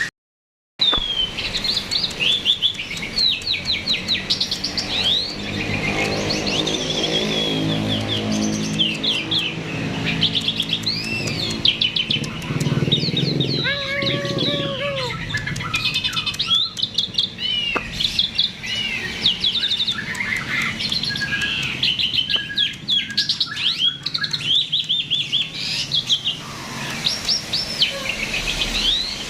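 Starling (jalak) in full song: a continuous, rapid stream of chirps, whistles and trills. The song cuts out for a moment right at the start.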